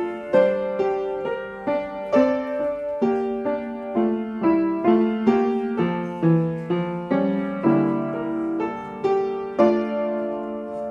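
Piano accompaniment for a ballet barre exercise, a steady flow of chords struck about twice a second, each fading before the next.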